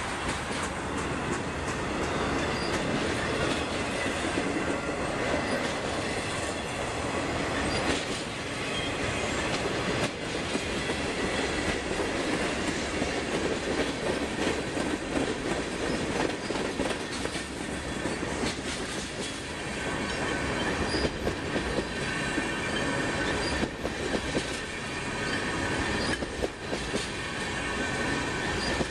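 Train cars rolling past at speed: a steady rumble of wheels on rail, with irregular clicks as the wheels cross rail joints and a faint, thin wheel squeal that comes and goes.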